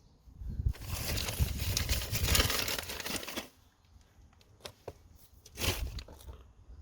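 Crinkling, rustling handling noise for about three seconds, then a shorter burst of the same near the end.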